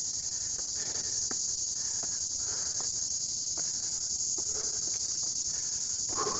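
Loud chorus of insects in the trees, a steady high-pitched drone without a break.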